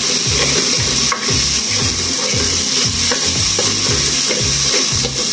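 Chopped onion and garlic sizzling in hot oil in an aluminium pot, stirred with a spoon scraping along the bottom.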